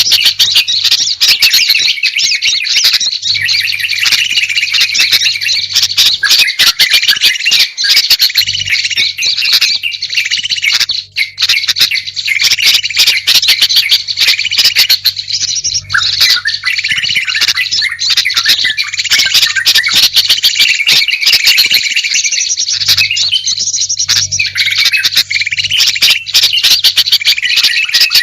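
Bird-lure recording of small songbirds: a dense, continuous chatter of overlapping chirps, trills and squawky calls, with a low hum underneath that comes and goes.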